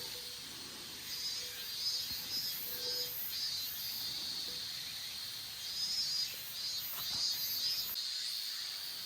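Insects chirring in a high, pulsing chorus that swells and fades every second or so, with a faint click about seven seconds in.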